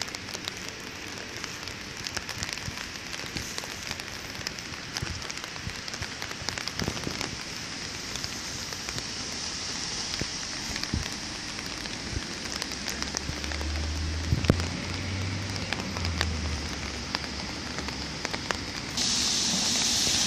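Steady rain, with many close drops tapping. A low vehicle hum joins partway through, and a louder hiss starts near the end.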